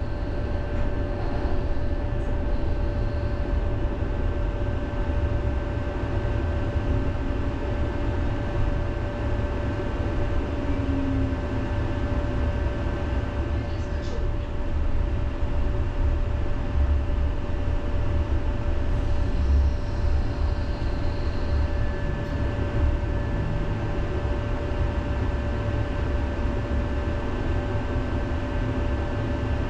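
Inside a moving city tram: a steady low rumble of wheels on rails with a constant hum over it.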